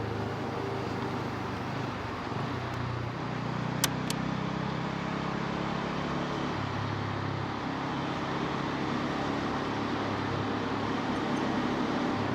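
Bajaj Pulsar N250's single-cylinder engine running under way, its pitch stepping down and up several times with throttle and gear changes, over wind and road noise. Two sharp clicks about four seconds in.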